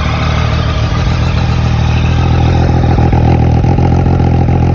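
2016 Triumph Daytona 675R's three-cylinder engine idling steadily just after a cold start, getting a little louder over the first couple of seconds.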